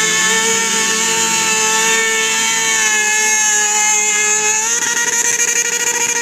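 Sport motorcycle's engine held at high revs during a rear-tyre burnout, a steady high-pitched drone; the revs step up a little about three-quarters of the way through.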